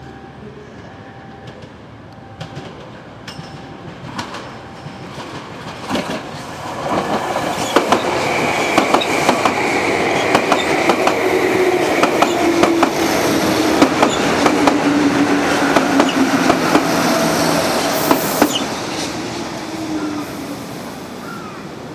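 A level-crossing warning bell rings in an even repeating pattern. About six seconds in, a Meitetsu electric train passes over the crossing, its wheels clacking over the rail joints with a steady tone under them. The train is loudest in the middle and fades near the end.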